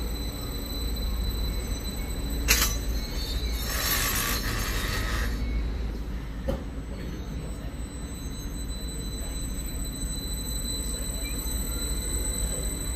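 Train at a station, with a steady low rumble. About two and a half seconds in there is a sharp knock, then a hiss of about a second and a half, and a second click a little later.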